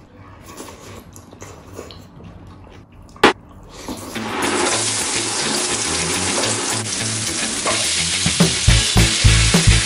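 Faint clicks of people eating by hand, with one sharp click, then from about four seconds in a steady sizzle of sliced onions and tomatoes frying as they are tossed into a hot oiled wok. A drum beat of background music comes in over the sizzling near the end.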